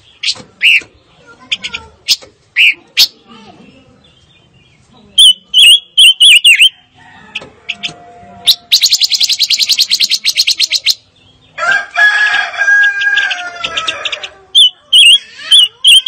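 Silver-eared mesia singing: short chirps, then loud runs of repeated whistled notes, a fast trill about halfway through and a jumbled warbling phrase after it.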